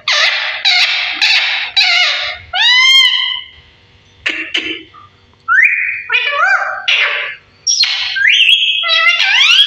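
Pet parrot calling loudly: a quick series of harsh squawks, then whistled calls that glide up and down in pitch, mixed with more squawks.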